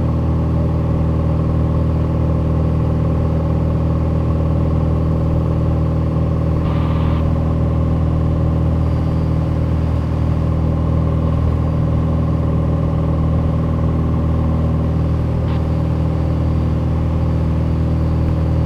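Piper Dakota's six-cylinder Lycoming O-540 engine and propeller droning steadily at climb power, heard from inside the cabin.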